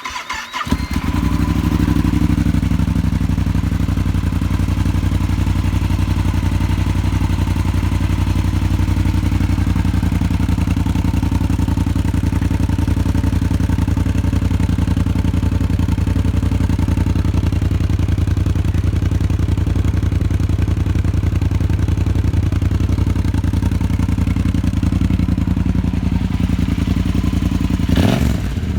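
2012 Yamaha Super Tenere's 1,200 cc parallel-twin engine starts and idles steadily through a stubby 14-inch Delkevic stainless tri-oval aftermarket muffler with its sound-baffle insert fitted. There is a brief rev near the end.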